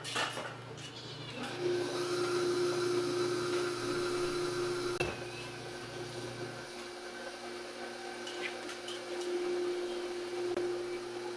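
A machine's motor running with a steady whine that starts about a second and a half in, over a low hum that stops about two-thirds of the way through, with a single sharp click near the middle.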